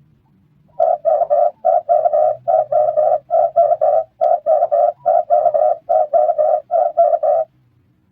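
Red turtle dove (red collared dove) cooing: a fast run of short coos at one pitch, about four a second in loose groups. It starts about a second in and stops near the end.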